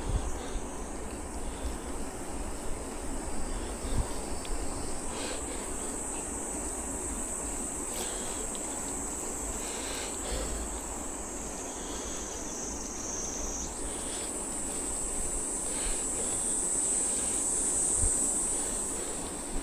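Insects buzzing in a steady high-pitched drone. The pitch sags slightly, then jumps back up about two-thirds of the way through, and the buzz grows louder near the end. Underneath is a low rumble of wind and riding noise.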